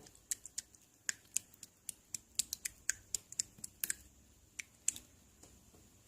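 A quick, irregular series of sharp little clicks or taps, about twenty in five seconds, stopping a second before the end.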